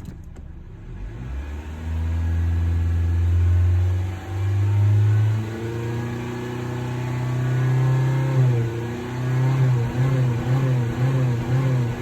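2020 Honda Civic engine being revved: the engine note climbs in steps over the first few seconds and holds at higher revs, then breaks into quick short throttle blips, about two a second, near the end.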